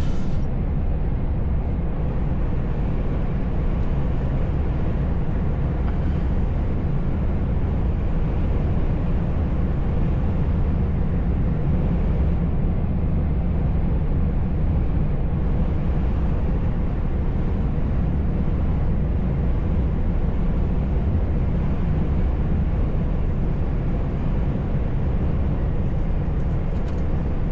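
Steady, even rumble of a truck on the move, heard from inside the cab: engine and road noise with a strong low drone.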